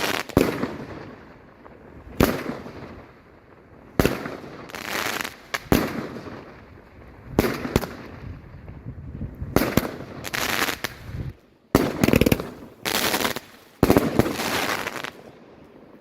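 Fireworks going off: a string of sharp bangs at irregular intervals of about one to two seconds, several trailing into a hissing crackle, stopping shortly before the end.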